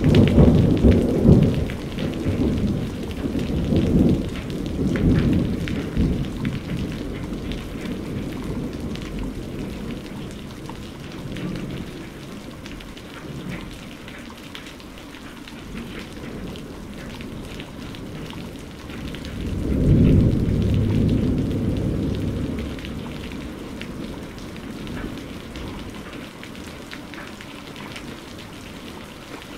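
Steady rain falling, with rolling thunder. A loud low rumble comes at the very start and rolls on, fading over several seconds, and a second roll of thunder follows about twenty seconds in.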